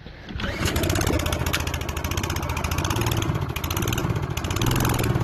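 Husqvarna AWD lawn mower's small gasoline engine pull-started cold without choke or primer, catching about half a second in and then running steadily.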